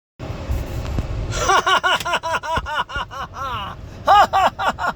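A man's rapid staccato laughter, a quick string of "ha" syllables each rising and falling in pitch, starting about a second in and breaking off briefly near the end, over a low vehicle rumble.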